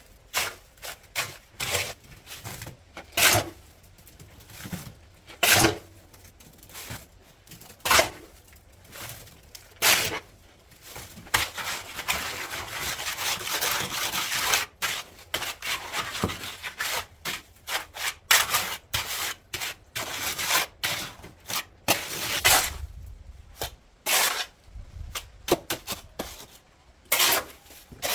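Hand work on building materials: irregular scraping and rubbing strokes broken by sharp knocks, with one longer continuous scrape near the middle.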